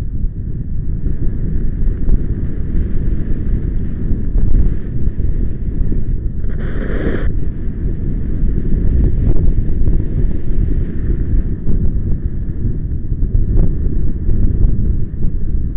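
Strong wind buffeting the microphone: a loud low rumble that rises and falls with the gusts. About seven seconds in there is a brief louder hissing rush.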